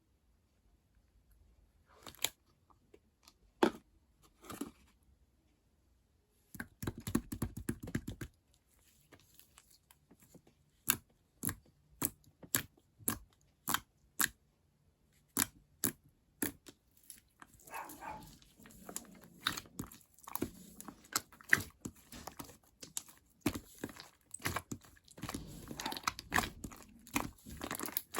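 Butter jiggly slime being squished and pressed by hand, making sticky clicks and pops. A few scattered pops at first, then a run of crisp pops about two a second, then denser wet squelching near the end.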